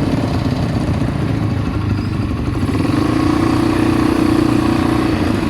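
ATV engine running steadily, with its hum growing stronger from about three seconds in.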